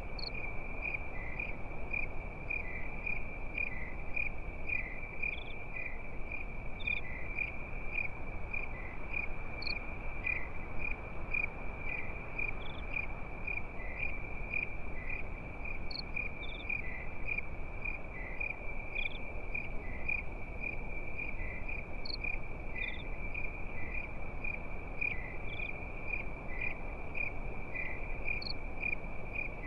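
Crickets chirping in a continuous, steady high-pitched pulsing chorus, with fainter chirps from other insects above it, over a steady low rushing background.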